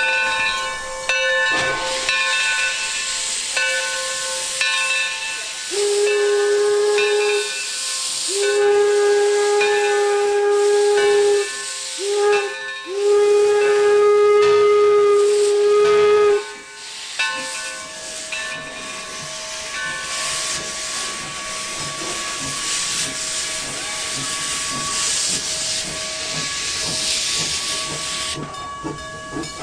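A whistle sounding four long blasts of one steady pitch, the last the longest, over a steady hiss that carries on after the blasts stop.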